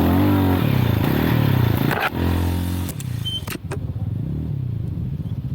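Motorcycle engine revving up and down as the bike is ridden over rough trail, then easing off about three seconds in to a lower, pulsing note, with a couple of sharp clicks or knocks.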